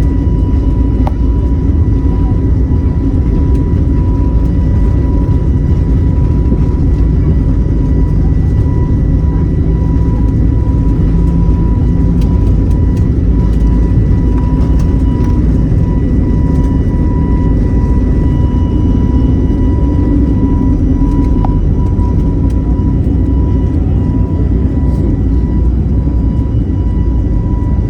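Airliner jet engines running: a loud, steady low rumble with a thin, steady high whine.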